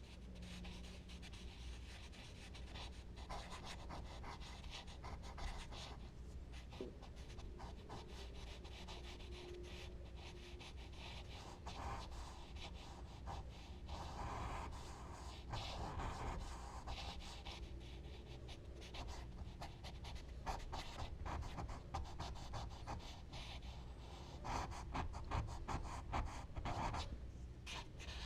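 Charcoal being stroked and rubbed across drawing paper: a run of short, scratchy strokes that come thicker and louder near the end.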